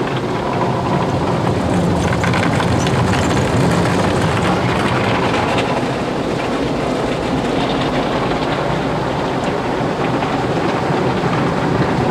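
Automatic car wash brushes spinning and scrubbing against the car body, heard from inside the car: a steady loud swishing rumble with a dense patter of fine slaps and water spray.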